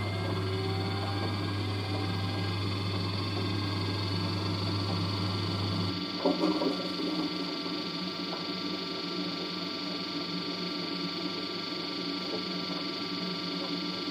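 LG DirectDrive F1496AD washer dryer running as its drying cycle starts. A low hum stops about six seconds in with a brief clunk, and a steady whine carries on.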